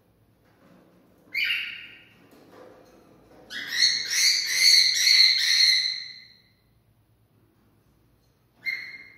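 Cockatiel calling and whistling: one short call, then a louder run of rapid pulsed whistled notes lasting about three seconds, then another short call near the end.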